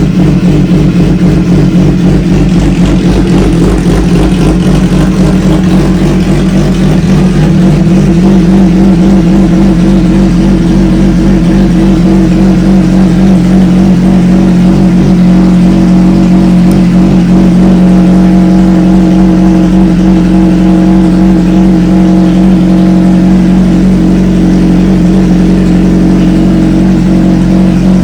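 600 cc inline-four supersport motorcycle engine running loudly at fairly steady revs. Its pitch wavers a little over the first several seconds, then holds steady.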